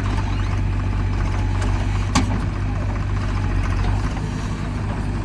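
JCB 3DX backhoe loader's diesel engine running steadily, with one sharp knock about two seconds in.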